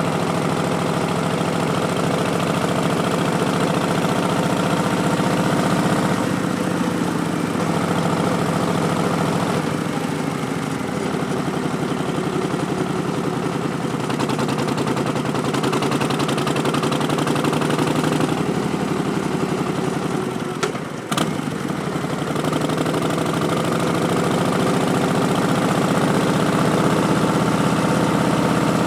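Harley-Davidson Street Bob's Milwaukee-Eight V-twin, through Vance & Hines Twin Slash slip-on mufflers, running under way with the pitch rising and falling as the throttle is worked. About two-thirds of the way through the sound briefly drops away with a sharp click, then picks up and climbs again.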